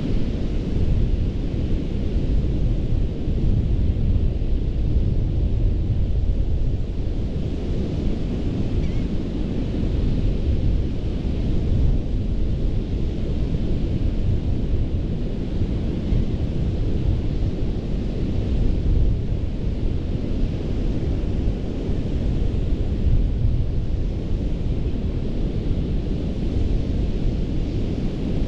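Ocean surf washing onto a beach, a steady rumbling wash with no single breaker standing out, its hiss swelling and easing every several seconds.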